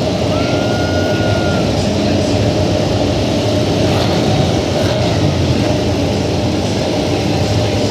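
Steady loud trackside din of MotoGP racing motorcycle engines running, with no single bike passing clearly; a thin high tone sounds for about a second near the start.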